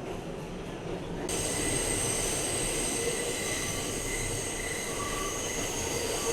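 R211A subway car running, heard from inside the car; about a second in, the wheels start squealing in several steady high-pitched tones that hold.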